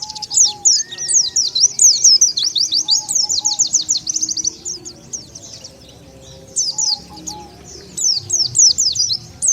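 White-eye (pleci) song used as a lure call: rapid runs of high, thin, down-slurred chirps that thin out a little past the middle, then pick up again.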